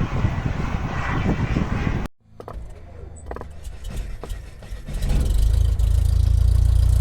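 Model aircraft engine running loud, then an abrupt cut to a low engine rumble with a few clicks that grows much louder about five seconds in.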